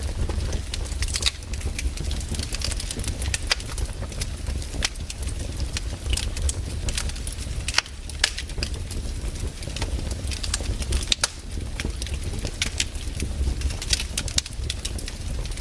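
Wood campfire burning, crackling with irregular sharp pops over a steady low rumble.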